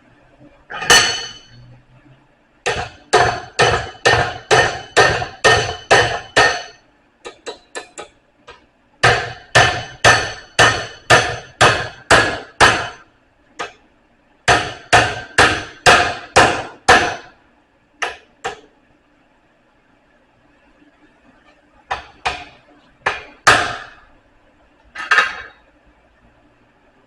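Blacksmith's hammer striking steel bar stock with a metallic ring, in runs of six to nine blows at about two a second separated by short pauses. A few quicker, lighter taps come between the first two runs, and a handful of single strikes follow near the end.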